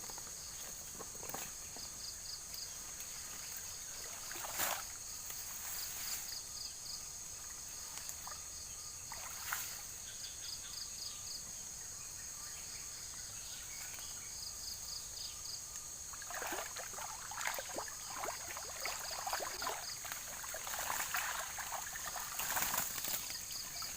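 Water sloshing and splashing in a river, a few isolated splashes at first and then near-continuous from about two-thirds of the way in, over a steady high chirring of crickets and other insects with a pulsing trill.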